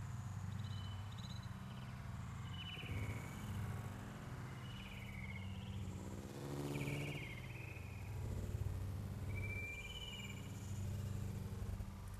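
Birds chirping faintly in scattered short calls that rise and fall, over a steady low hum, with a brief buzz about halfway through.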